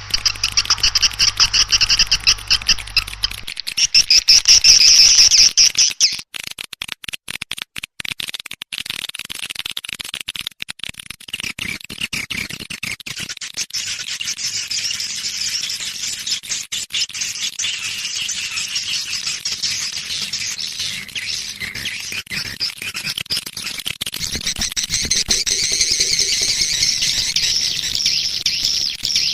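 Swiftlet lure-call recording: dense, continuous chirping and twittering of swiftlets, the kind played from a swiftlet house to draw the birds in. A low hum lies under the first few seconds, and the chirping breaks up into crackling dropouts from about six to twelve seconds in.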